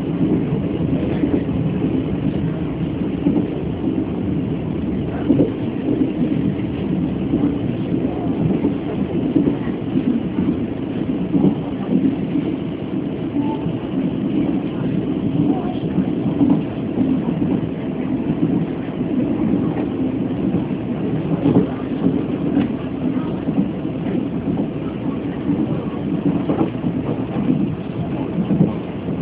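Steady rumble and rattle of a Chu-Kuang express passenger carriage running along the track, heard from inside the carriage, with scattered clicks and knocks throughout.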